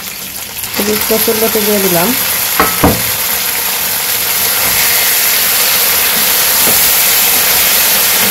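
Boiled taro stolons and fried fish heads sizzling in hot oil in a wok while a wooden spatula stirs them. There are a couple of sharp knocks about three seconds in. After that the sizzling gets louder and stays steady.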